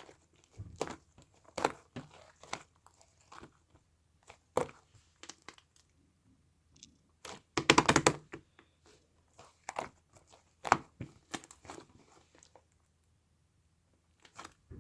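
Irregular crunching and crinkling noises in short bursts, with a louder, denser crunchy burst about eight seconds in.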